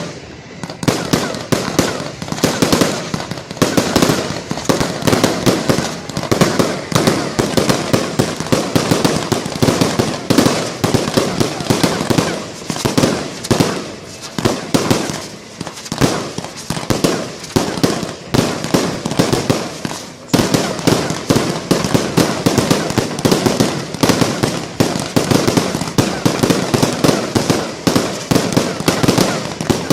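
Fireworks going off in quick succession, several bangs and crackles a second without pause.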